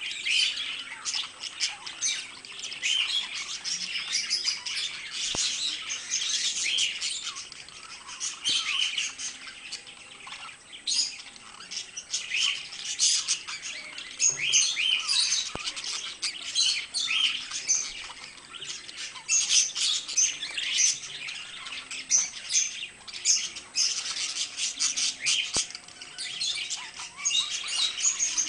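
Pet budgerigars chattering: a continuous stream of quick, high chirps and pitch-bending calls.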